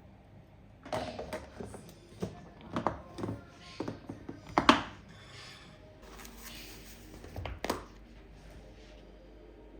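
Objects being handled and set down, likely dishes and containers: a string of knocks and taps, the loudest about halfway through.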